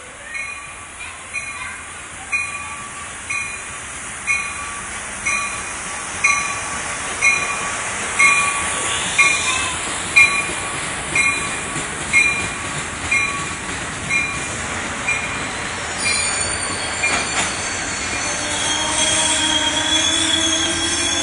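Shoreline East commuter train pulling into the station cab car first, its bell ringing about once a second over the rising rumble of the wheels. About sixteen seconds in the bell stops and high brake and wheel squeal sets in as the train slows to a stop.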